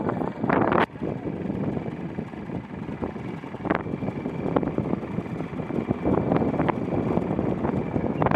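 Tractor engine running steadily under wind buffeting on the microphone, with a few short knocks.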